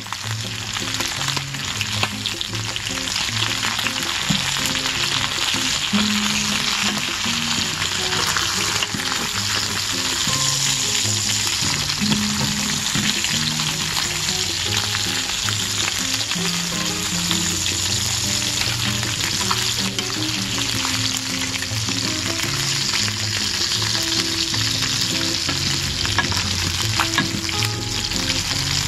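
Boneless chicken quarters sizzling steadily as they fry in a hot Saladmaster stainless-steel electric skillet, with a wooden spatula scraping and turning them now and then.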